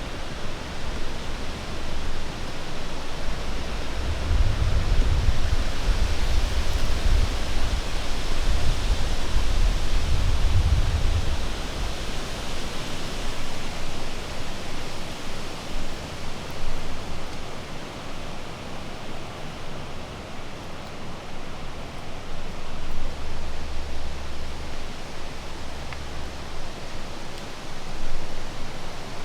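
Strong, gusty wind, around 25 miles an hour, rushing through the trees, with wind buffeting the microphone in heavy low rumbles from about four to eleven seconds in and again for a few seconds near the end.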